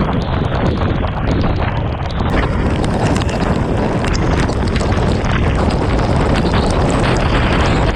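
Wind buffeting the microphone of a camera on a moving motorcycle in heavy rain, a steady rumbling rush with many small sharp ticks of raindrops striking it.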